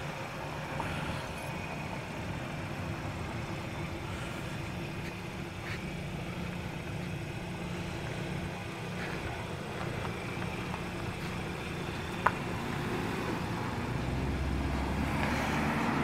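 Hyundai Sonata's engine idling steadily, a low even hum, with a single sharp click about twelve seconds in.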